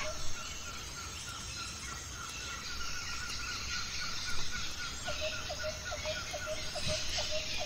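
A bird calling in a steady series of short repeated notes, faster and higher in the first half, then slower and lower from about five seconds in, over a steady high hiss of insects.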